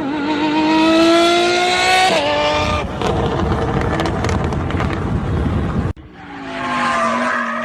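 Exotic sports car accelerating hard: the engine note climbs, then drops abruptly about two seconds in as it shifts up, followed by loud, rough exhaust noise. Near the end, after an abrupt cut, another engine note rises, dips and settles.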